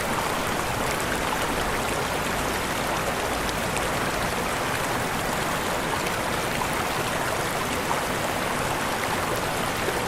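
Waterfall: water falling and splashing in a steady, unbroken rush, with small droplet ticks on top.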